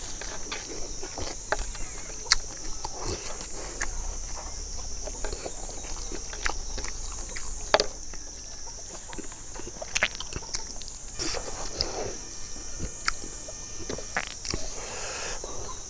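A person chewing and lip-smacking while eating roasted chicken and rice by hand, with irregular wet smacks and clicks throughout. A steady high-pitched hiss runs underneath.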